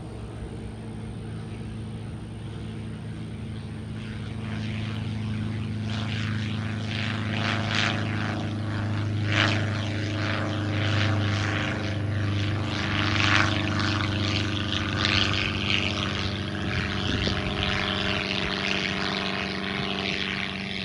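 Propeller-driven light aircraft, a Thatcher CX7 with its Revmaster 85 hp engine, running steadily at an even pitch. It grows louder from about four seconds in, and a rushing noise of propeller and air builds over the engine note.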